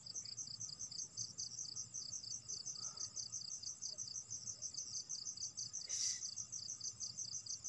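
Crickets chirping in a steady, rapid, evenly repeating high-pitched pulse, with a brief soft rustle about six seconds in.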